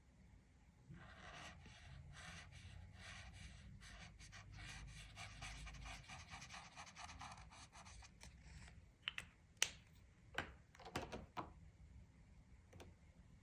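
Coloring strokes on paper: a fast run of scratchy back-and-forth strokes for about eight seconds, then a few sharp clicks or taps.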